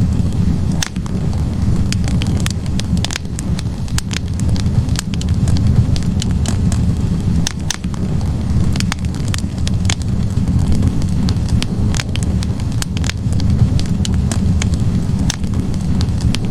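Wood logs burning in a fireplace: many irregular sharp crackles and pops over a steady low rumble of the flames.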